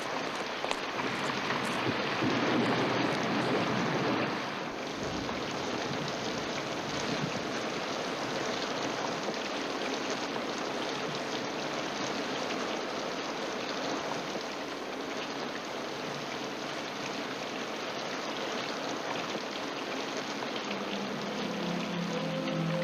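Steady rushing noise of water, louder for the first four seconds, with soft music coming in near the end.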